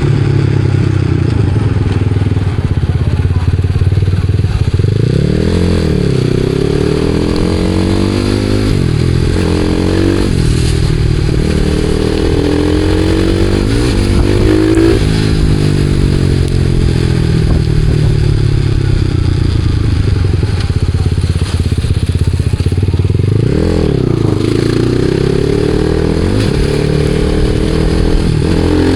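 Supermoto motorcycle engine running under way, its revs climbing and dropping several times as the throttle is opened and closed.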